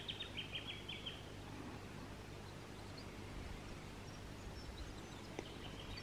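Faint outdoor bush ambience: a bird gives a quick run of high chirps in the first second, then only a few scattered faint chirps over a low, steady background hum.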